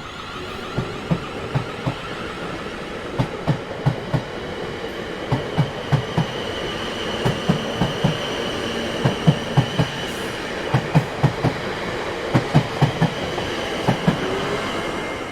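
Train wheels rolling over rail joints: sharp clacks in quick clusters over a steady rumble, with a faint high whine running along with them.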